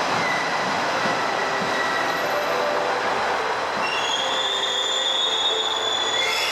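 Limited express train running along the platform track, its wheels squealing with high, held tones from about four seconds in over the train's steady rumble.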